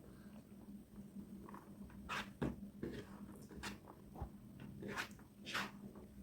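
Faint close-up eating sounds: chewing with irregular wet clicks and smacks of the mouth, a handful of sharper ones spaced a second or so apart.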